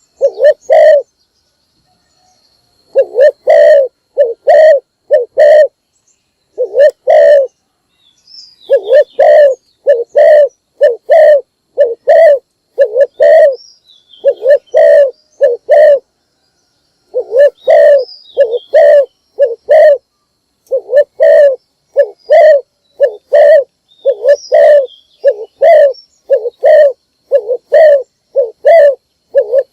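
Spotted dove cooing: a long run of short, low coo notes in quick succession, broken by brief pauses about 2, 6 and 16 seconds in. Faint high chirps of small birds come in now and then behind it.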